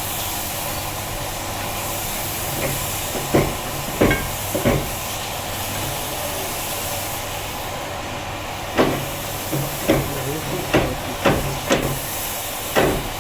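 Sharp knocks, like hard tapping on stone, over a steady hiss. Three knocks come a few seconds in, then a run of about six more near the end.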